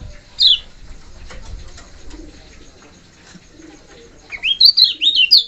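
Kecial kuning songbird singing: one loud, sharp falling whistle about half a second in, then near the end a rapid run of high chirping notes that slide up and down.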